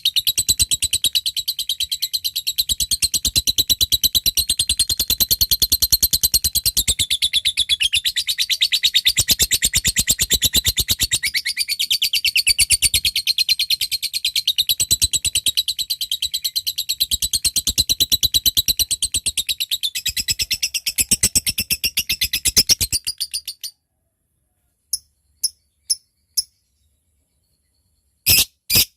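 A lovebird giving its long, rapid, rattling trill ("ngekek panjang"), which runs unbroken for over twenty seconds and then stops abruptly. After a pause come four short separate ticks, the "ngetik" call, and near the end a new series of loud, evenly spaced chirps starts.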